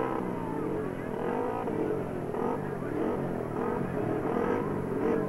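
Speedway motorcycle engines running and being revved, their pitch rising and falling again and again with several engines overlapping.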